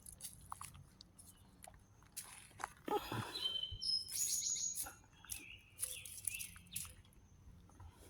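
Birds chirping: a string of short, high calls in the middle, with scattered faint clicks.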